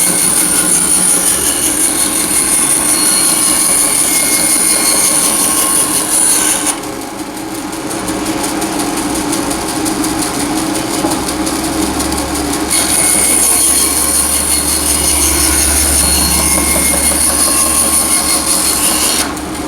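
Wood lathe running, with a turning tool cutting the spinning wood: a loud, steady, rough scraping over a high motor whine. The sound drops abruptly about seven seconds in, comes back about thirteen seconds in, and drops again near the end.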